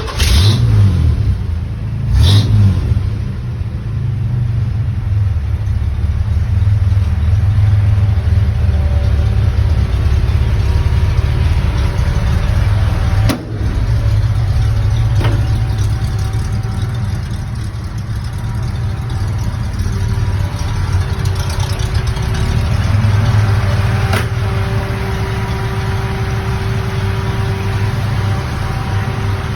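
Engine of a 1931 Ford Model A hot rod on a cold start. It fires up with a sharp blip of revs, blips again about two seconds in, then settles into a steady, loud idle with a deep rumble.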